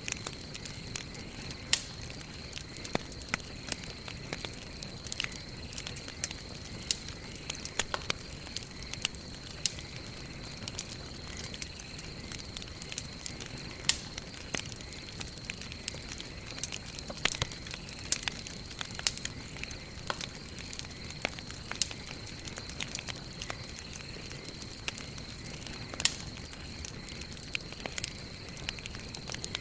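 Wood campfire burning and crackling, with frequent irregular sharp pops and snaps over a soft steady hiss of the flames. A thin, steady high-pitched tone runs underneath.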